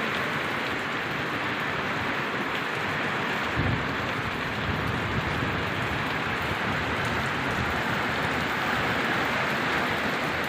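Steady rain falling, an even hiss with no let-up. A brief low rumble comes about three and a half seconds in.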